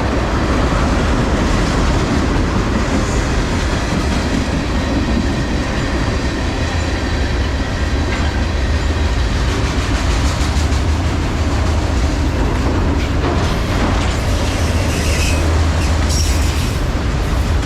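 Train rolling past, a loud steady rumble with the clatter of wheels over the rails.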